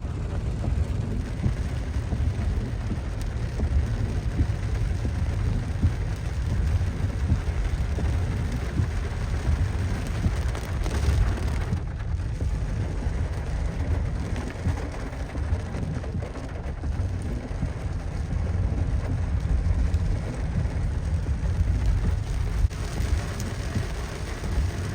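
Heavy rain pouring down in a severe windstorm, a steady hiss of rain over a strong, unsteady low rumble.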